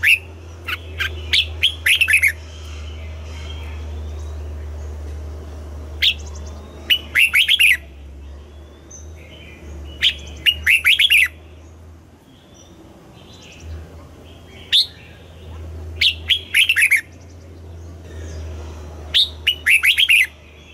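Red-whiskered bulbul singing: short loud phrases of quick falling whistled notes, repeated every few seconds, about six times. A steady low hum runs underneath.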